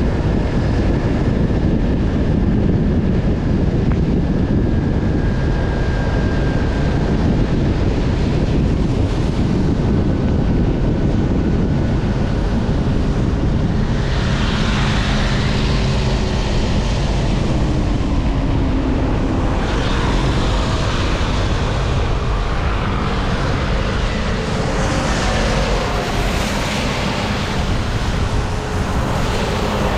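Wind buffeting the microphone of a rider moving along a road, a loud steady rumble. Other road traffic swells past about halfway through, again a little later, and near the end.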